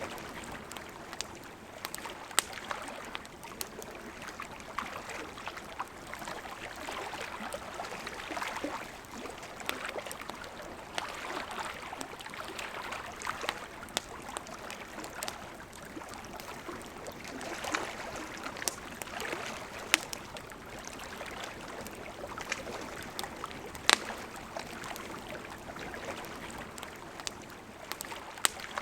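Campfire crackling with scattered sharp pops, a few much louder than the rest, over the steady rush of flowing river water.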